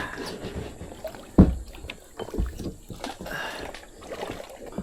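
Kayak being paddled: paddle strokes swishing through the water, with two dull knocks, about a second and a half and two and a half seconds in.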